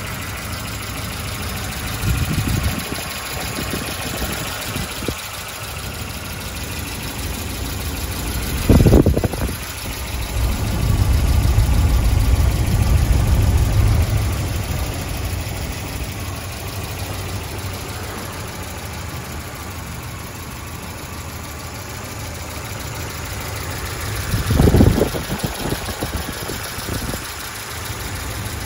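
Volvo 240's B200F 2.0-litre inline-four, fitted with a 531 cylinder head and VX3 camshaft, idling steadily. There are short louder low surges about nine seconds in and again late on, and a louder low stretch of a few seconds just after the first.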